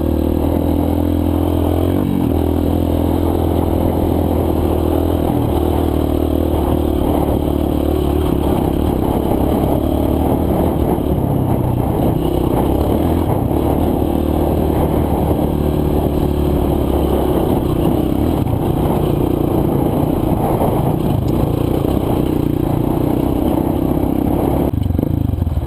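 Single-cylinder four-stroke dirt bike engine running on the trail, its note stepping up and down every few seconds with throttle and gear changes, then easing off near the end.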